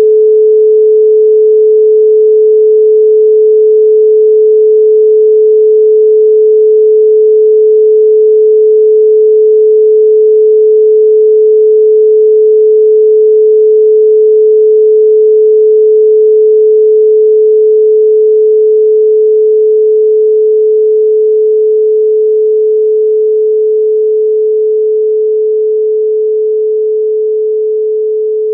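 A steady 432 Hz pure sine tone, one unwavering pitch with no overtones, which begins slowly fading out in the second half.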